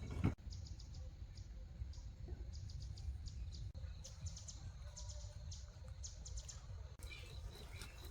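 A single knock right at the start, then small birds chirping in quick, high, short notes over a steady low rumble.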